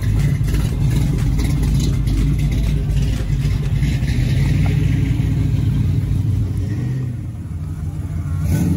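Classic cars with loud exhausts driving slowly past one after another, a Chevrolet C10 pickup and then a Dodge Dart, their engines rumbling at low speed. The rumble eases off briefly near the end, then rises again as the next car comes up.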